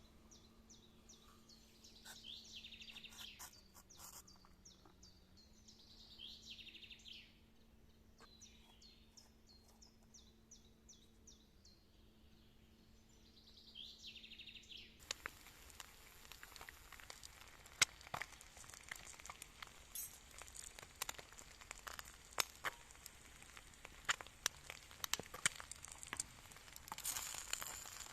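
A bird singing faint, repeated short phrases of quick high notes. About halfway through, the sound changes to a dense run of crinkling and crackling, with many sharp small clicks.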